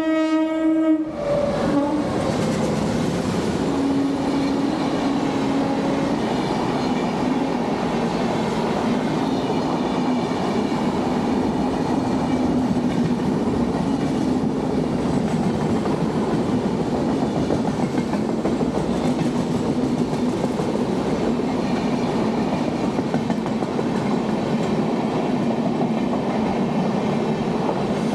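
A train horn finishes sounding about a second in, then an Indian Railways express train's coaches pass, with a steady rolling rumble and wheels clicking over the rail joints.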